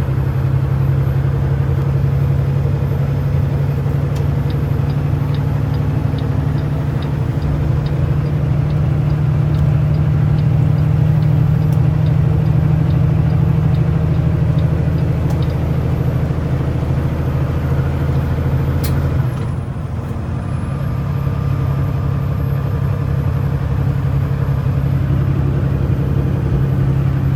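Kenworth T680 semi-truck engine and road noise heard from inside the cab while cruising, a steady low drone. A light ticking runs about twice a second through the first half, and the engine note drops about nineteen seconds in before settling again.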